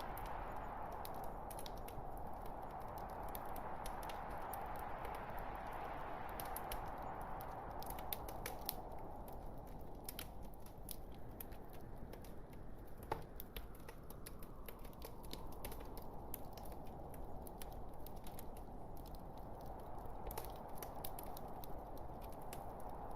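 Wood fire burning in a fireplace: a steady soft rush with many small crackles and pops from the burning logs, one louder pop about 13 seconds in.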